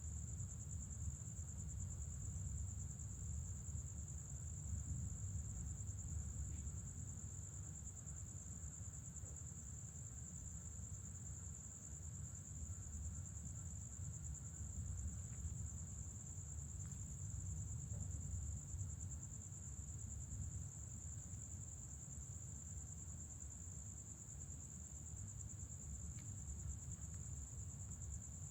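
Night insects giving one continuous high-pitched trill, like crickets, over a steady low rumble.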